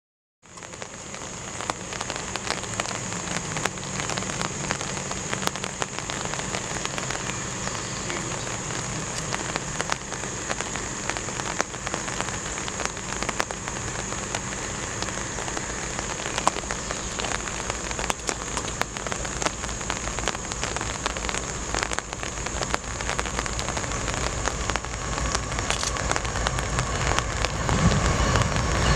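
Diesel freight locomotives approaching from a distance: a low engine rumble that grows louder over the last few seconds. Over it lies a steady crackling hiss with a high, even drone.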